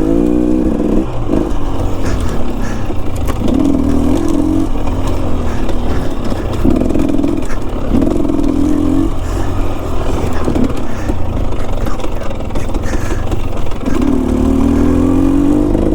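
Enduro dirt bike engine pulling in bursts of throttle on a steep trail, rising briefly about five times and dropping back to a lower rumble between them.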